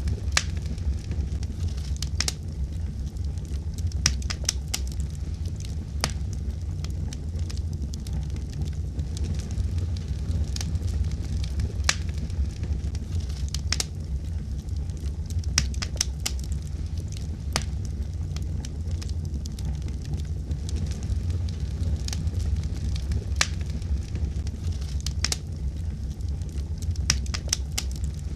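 Wood fire burning in a fireplace: a steady low rumble of the flames with irregular sharp crackles and pops, sometimes several close together.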